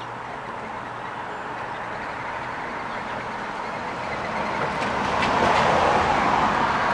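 A passing vehicle: a steady rushing noise that swells louder over the last few seconds.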